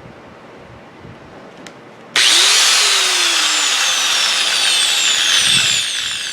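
Skil 4-inch angle grinder switched on about two seconds in, running with a loud high whine, then fading near the end. It spins freely now that the pin that had jammed and locked its gears is freed.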